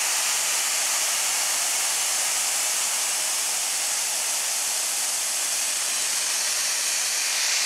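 Compressed air hissing steadily out of a Campbell-Hausfeld air compressor's tank, bled off to lower the pressure so the motor will kick on.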